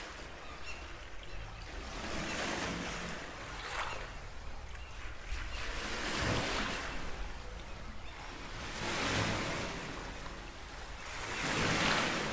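Small ocean waves breaking and washing on the shore, one swell about every three seconds, over a steady low rumble.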